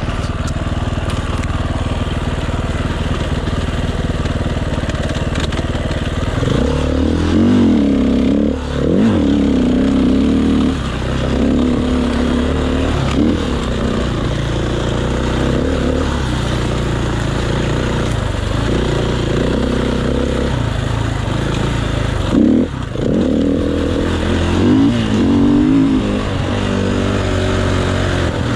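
Enduro motorcycle engine heard up close from the rider's chest, running steadily, then from about six seconds in revving up and dropping back several times as the throttle is worked, under a constant rushing noise.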